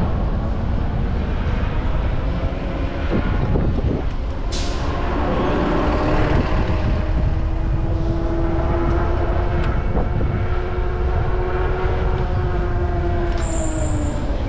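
Wind rumble on the microphone and road noise from riding an e-bike, with a steady pitched whine from a large passing vehicle that sets in about five seconds in and sags in pitch as it fades near the end. A high thin squeal starts just before the end.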